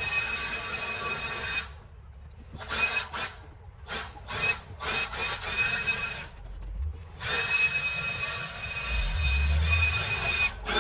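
A power saw running in several bursts, cutting up old decking timber; a steady high whine that stops and starts, with the longest runs at the start and in the second half.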